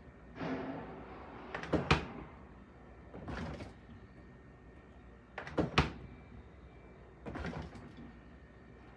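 Refrigerator doors of a TCL P186BFN two-door fridge being opened and shut repeatedly: soft swishes alternating with sharp thuds, roughly every two seconds.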